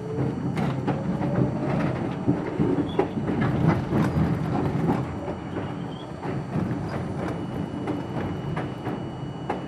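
R42 subway car running along the track: a steady wheel rumble with irregular clacks over rail joints. A rising motor whine over the first second or two shows the train picking up speed.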